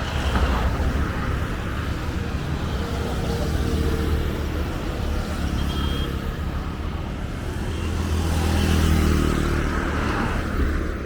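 Road traffic: motor vehicle engines running by steadily, with one vehicle growing louder and passing close about eight to nine seconds in.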